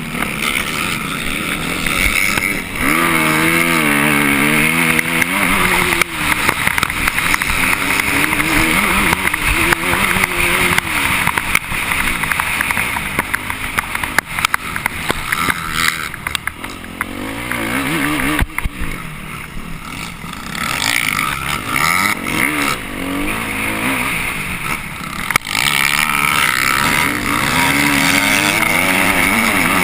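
Off-road motorcycle engine ridden hard, its revs repeatedly rising and falling as the rider throttles on and off, with occasional sharp knocks.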